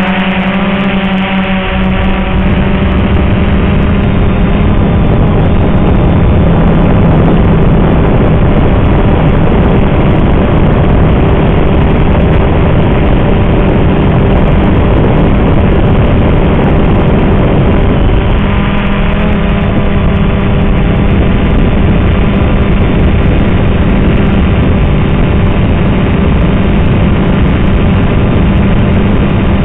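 XK Detect X380 quadcopter's electric motors and propellers running in flight: a loud, steady hum with a dense whooshing noise over it.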